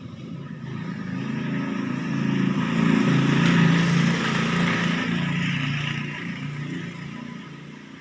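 A motor vehicle passing close by: its engine and tyre noise grow louder to a peak about three to four seconds in, then fade away.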